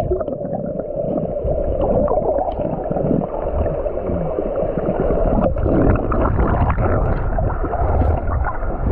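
Muffled underwater bubbling and gurgling, heard through an action camera's microphone under the sea after a jump into the water; the sound is dull and rumbling, with no clear high sounds.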